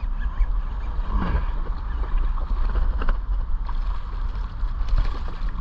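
Steady low wind rumble buffeting the microphone on the water, with a short falling call about a second in and a few light knocks.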